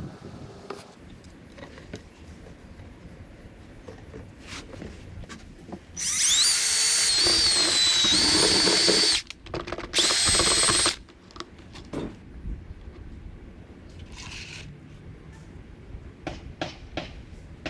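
Electric drill run in two bursts, the first about three seconds long with its motor whine stepping up in pitch as it spins up, the second about a second long. Light clicks and handling noise come before the bursts.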